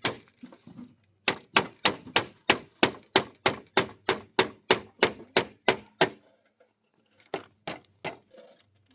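Hammer striking wood in a fast, even run of blows, about three a second. The run stops about six seconds in, then a few more blows come near the end.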